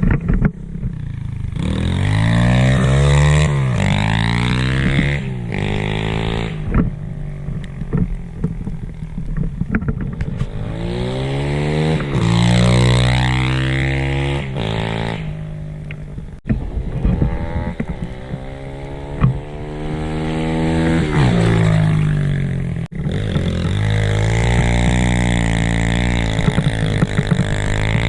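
SSR 125 pit bike's single-cylinder four-stroke engine, fitted with a cut-to-fit aftermarket exhaust, being ridden hard through deep snow. The revs climb and fall back about four times, dropping off sharply twice.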